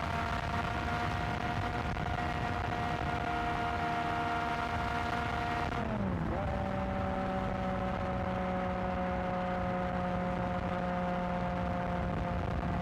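Yamaha XSR900 inline-three engine running through a new aftermarket exhaust while riding at a steady speed, a constant engine note. About six seconds in the note dips sharply and picks up again at a steady pitch.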